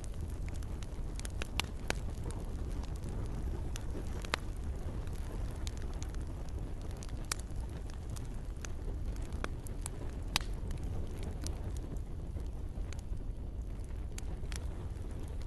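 Campfire burning: a steady low rumble with scattered sharp crackles and pops, a few of them louder.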